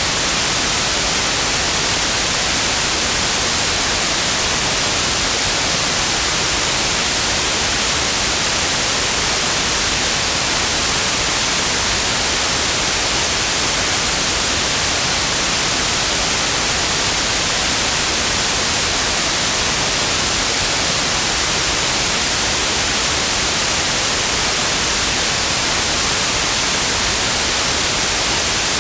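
Steady white noise: an even, unchanging hiss, bright in the highs.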